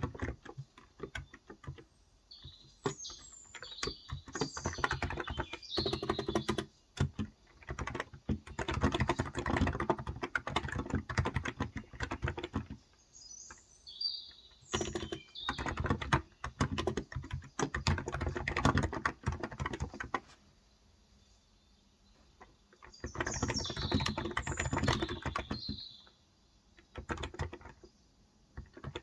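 Rapid typing on a Cox Endeavor electrostatic-capacitive (Topre-style) 35 g tenkeyless keyboard, in long bursts of keystrokes broken by short pauses and one longer lull past the middle. Birds chirp in the background in three short spells.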